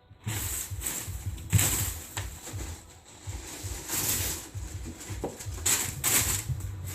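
Paper crinkling and rustling as kittens scramble through a pile of loose paper, in three noisy spells with short lulls between them.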